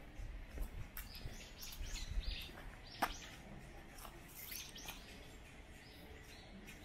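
Small birds chirping: short, high calls repeated many times. There is a sharp click about three seconds in, and a few low thuds in the first half.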